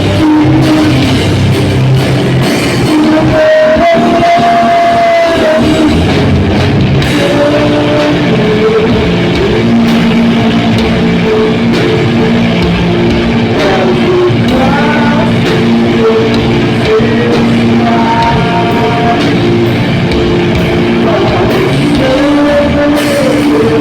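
A metal band playing live, loud: distorted guitars, bass and drum kit, with some singing or yelled vocals.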